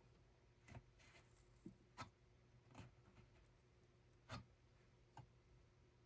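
Faint, irregular light clicks and taps, about six over a few seconds, over a low steady room hum; the loudest click comes about four seconds in.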